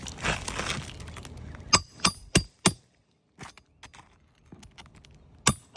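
Hammer striking a steel roof snake under the shingles: four sharp, ringing metallic clinks about a third of a second apart near two seconds in, then two more near the end.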